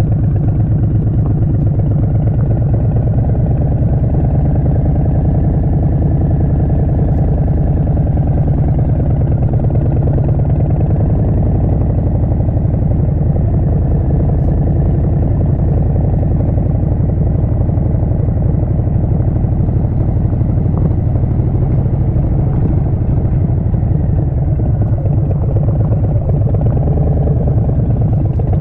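Harley-Davidson Street Bob's Milwaukee-Eight 114 V-twin running steadily through a Vance & Hines Short Shots full exhaust, with loud, even low firing pulses.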